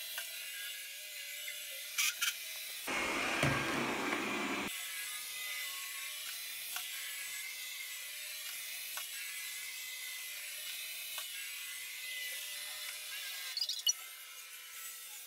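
Xiaomi Mi Robot Vacuum running with a steady hiss-like whine, plus a few short knocks about two seconds in and near the end.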